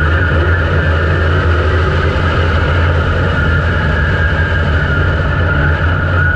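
IMCA Modified dirt-track race car's V8 engine, heard from the car's onboard camera, running loud and steady.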